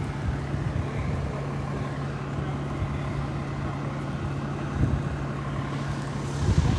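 Fire truck's engine running steadily with a low, even hum, over a rough low rumble. A brief louder rush comes near the end.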